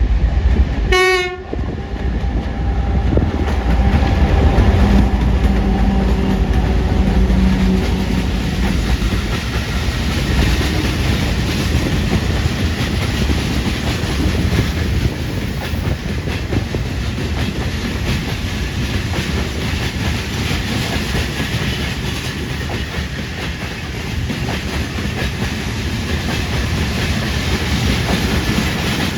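2TE10UK twin-section diesel locomotive hauling a freight train past at close range. It gives one short horn blast about a second in, then the engines run and the wagons roll by with a steady rumble and wheel clatter.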